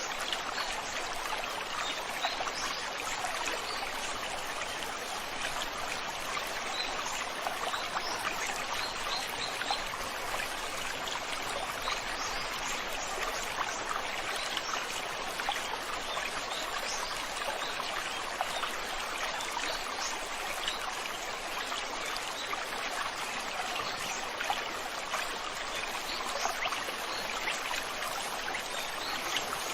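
River water flowing over stones, a steady rushing and trickling stream.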